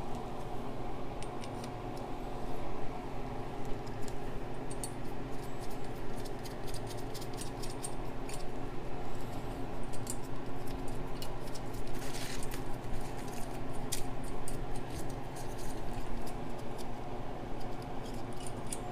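Irregular small metallic clicks and scrapes of hand tools and hardware as nuts are run onto the manifold studs, denser in the middle, over a steady background hum.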